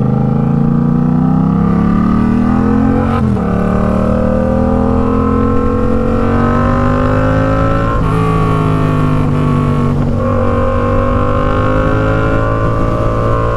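Yamaha MT-07's parallel-twin engine through an Arashi aftermarket exhaust, accelerating under way. The pitch climbs, drops briefly at gear changes about three, eight and ten seconds in, then holds steadier near the end.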